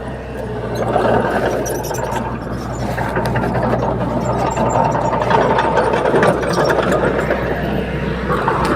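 Diesel engine of heavy earthmoving machinery running steadily, with a low, even hum and a few scattered clicks and knocks.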